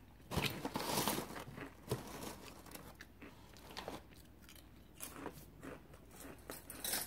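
Crisp snack being bitten and chewed close to the microphone: a loud crunch at the first bite, then smaller crackling crunches as it is chewed.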